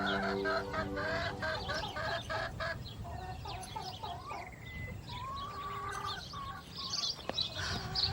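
Chickens clucking: a run of short, quick calls in the first few seconds, then scattered calls, over a low steady background rumble.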